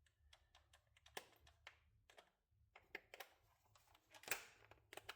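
Near silence broken by a few faint, scattered clicks and taps of hand tools being handled, a socket and ratchet being worked.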